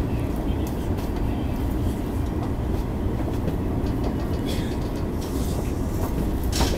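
Electric commuter train pulling into a station, heard inside the front car: a steady low rumble of wheels and running gear, with scattered clicks from the wheels on the rails and a short hiss near the end.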